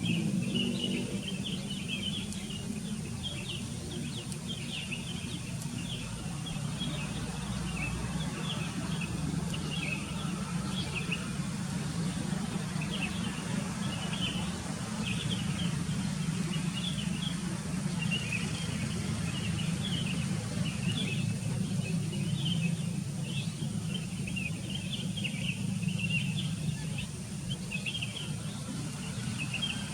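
Birds chirping busily, many short high chirps overlapping without pause, over a steady low hum.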